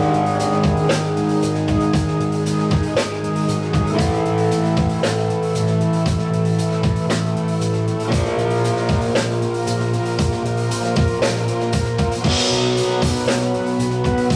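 Live band playing: guitar chords held and changing every couple of seconds over a steady drum-kit beat.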